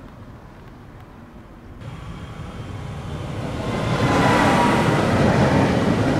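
A train approaching the station, its rolling noise rising from faint to loud from about two seconds in, with a high metallic squeal joining near the middle.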